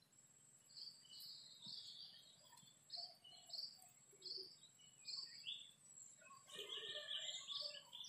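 Faint calls of several small songbirds in the tree canopy: short high chirps every second or so, then a denser run of chattering calls from about six and a half seconds in.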